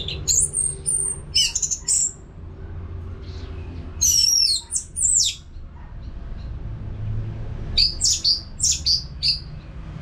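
Orange-headed thrush (Geokichla citrina) singing: three bursts of quick, high whistled phrases, some notes sweeping up and down, over a steady low hum.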